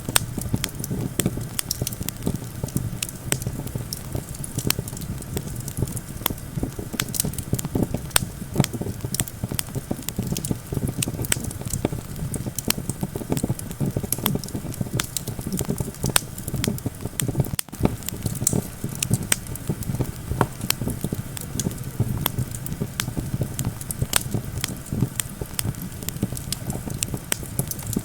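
Campfire crackling, with many sharp irregular pops and snaps over a steady low rumble.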